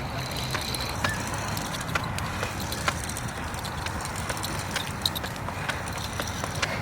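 Steady rolling noise with scattered light clicks and scuffs: a truck's tyres rolling slowly over the ground as it is pushed by hand, with the pusher's footsteps.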